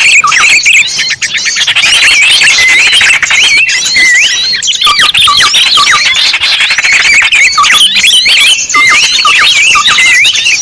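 A dense, loud chorus of many small songbirds, with rapid overlapping chirps, whistled up-and-down notes and trills packed together without a break. It is a bird-trapping lure call, used to draw small birds in.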